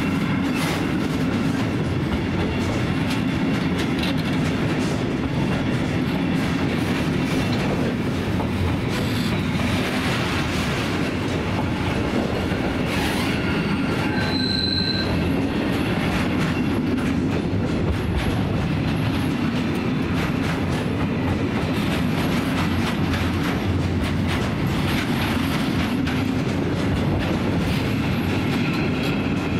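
A long freight train of loaded log wagons rolling steadily past, its wheels clacking over rail joints, with a brief high-pitched wheel squeal about halfway through.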